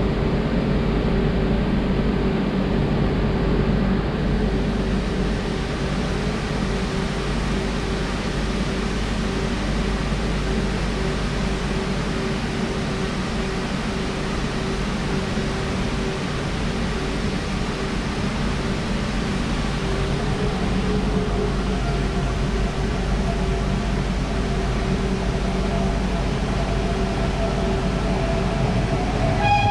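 Steady rumbling noise of a slowly approaching passenger train, with a constant low hum. Higher metallic ringing tones come up near the end as the coaches draw close.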